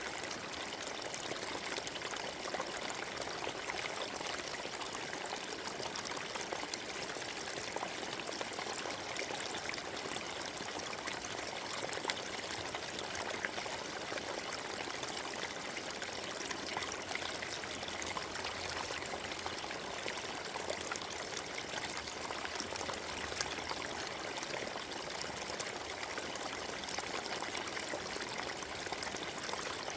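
Forest stream running over stones: a steady babble of flowing water, full of small splashes and trickles.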